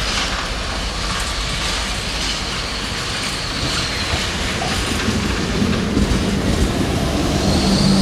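A train running along the rails, its wheels clacking over the rail joints, with a faint high wheel or brake squeal. The sound grows louder in the second half.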